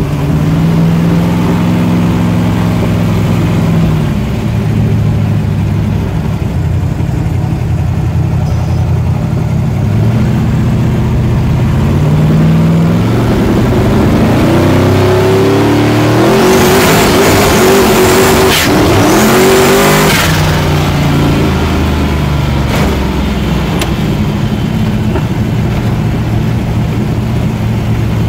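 Twin-turbo 522 cubic-inch big-block Chevy V8, heard from inside the car's cabin, running at low revs while cruising. About halfway through it is pushed through a hard acceleration: the engine note climbs steeply under a loud rush and a high whistle for several seconds, then it drops off suddenly and settles back to a lower steady note.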